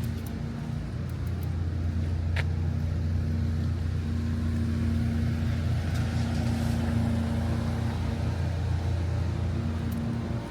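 Steady low engine drone with a constant hum, with one short click about two and a half seconds in.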